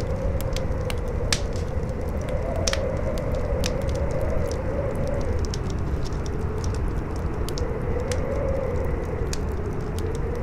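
Campfire crackling with frequent sharp pops, over a strong howling wind whose pitch slowly wavers up and down, with a low rumble beneath.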